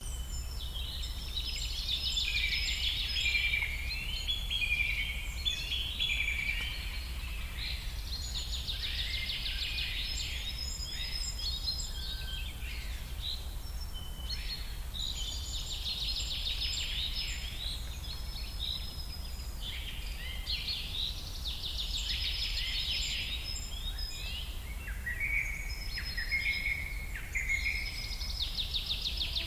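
Birds chirping and trilling in many overlapping calls, some falling in pitch, with a low steady rumble underneath.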